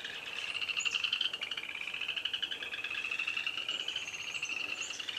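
A chorus of frogs calling along a stream: many overlapping, fast-pulsed, high trills going on without a break.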